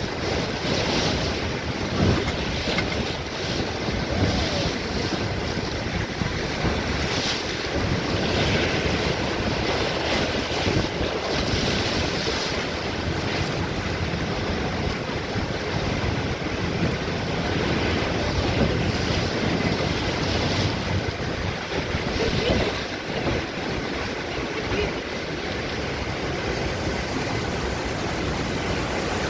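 Steady rushing of water with wind buffeting the microphone in irregular gusts.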